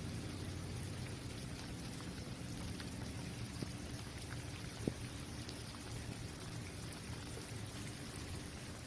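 Steady rain falling on a basketball court, with scattered drop ticks and one sharper tap about five seconds in.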